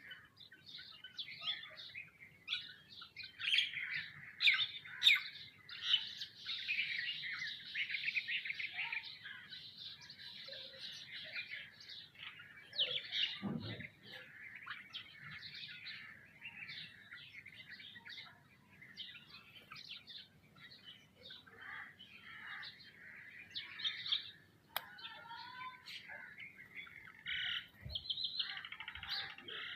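A flock of sparrows and other small birds chirping in a dense, overlapping chatter, busiest over the first several seconds. A single low thump sounds about halfway through.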